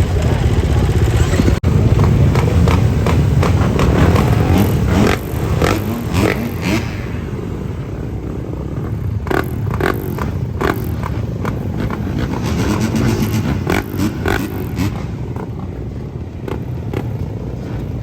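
A motor vehicle running with a heavy low rumble, and a run of sharp knocks and scrapes over the first two-thirds.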